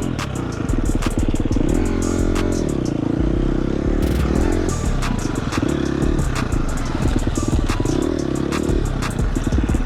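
KTM dirt bike engine running on a trail ride, its revs rising and falling several times, with frequent sharp clatter and knocks from the bike over rough ground.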